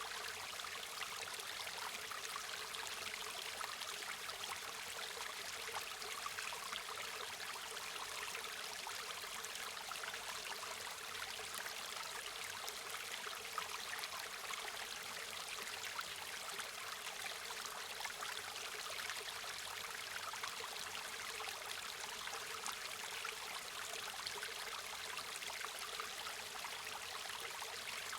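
River water running steadily over rocks, a continuous rushing with fine splashing and trickling.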